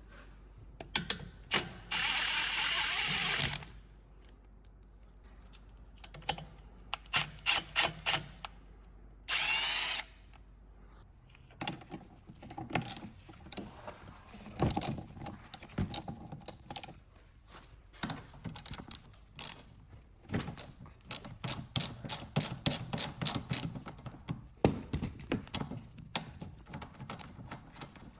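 A power tool runs in two short bursts, one about two seconds in and one near ten seconds. Around them come many sharp clicks and clatter of hand tools working on the suspension, with quick runs of ratchet-like clicking in the second half.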